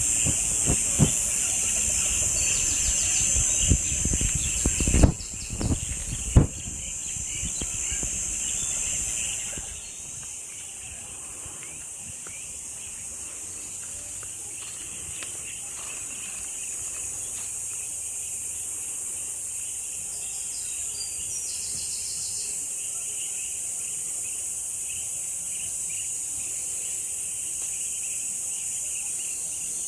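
A steady, high-pitched drone of insects in the trees, with a few knocks and bumps on the microphone in the first seven seconds; the drone drops in level about ten seconds in and carries on more quietly.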